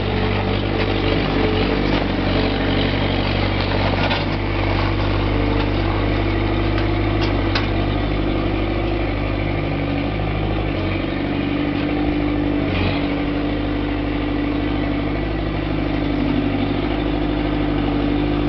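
Kubota V1902 four-cylinder diesel engine of a New Holland L553 skid steer running steadily, its pitch shifting slightly now and then.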